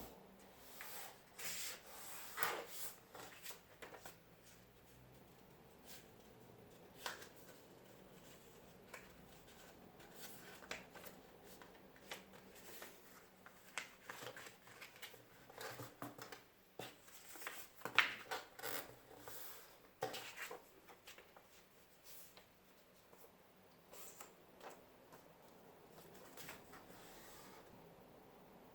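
Irregular soft rustles, light taps and clicks of small objects being handled, bunched into busier spells with quieter gaps between.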